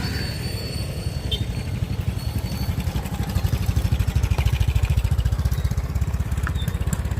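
Motorbike engine running steadily with a fast, even low pulse, a little louder in the middle.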